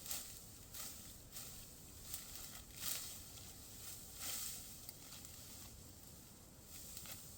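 Faint, crisp rustling swishes of dry wheat stalks, coming irregularly about once a second.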